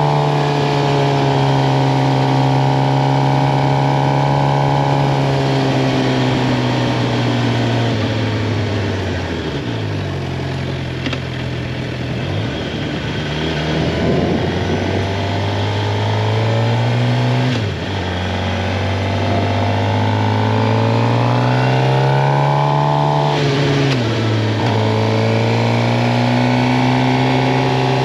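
Suzuki GSX-R 750 inline-four engine under riding: the engine note slowly falls for the first third as the bike slows, then climbs again as it accelerates, dropping sharply twice in the later part as it shifts up through the gears.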